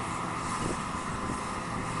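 Combine harvester running steadily at work, with a constant engine drone and a band of machine noise.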